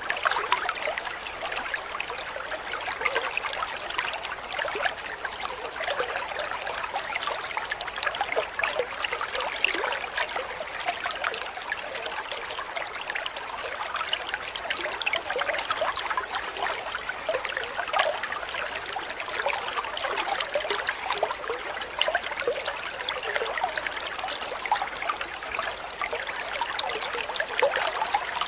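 Water trickling and babbling steadily, like a small stream.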